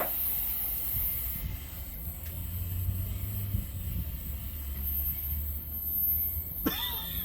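Diesel freight train rumbling steadily, a deep low drone throughout. Near the end a brief wavering high-pitched call cuts in over it.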